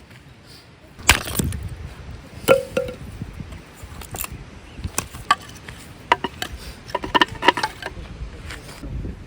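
A series of irregular sharp knocks and clinks, the first and loudest about a second in, one with a short ringing tone, and a quick cluster of taps near the end.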